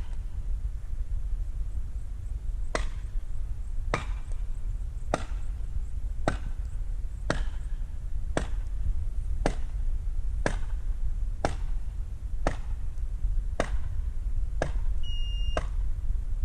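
About a dozen sharp strikes on wood at an even pace of roughly one a second, as a tool is driven into or chopped at timber, over a steady low rumble.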